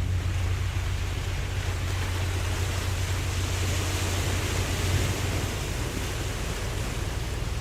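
Ocean waves washing steadily in a continuous hiss of surf, with a steady low rumble underneath.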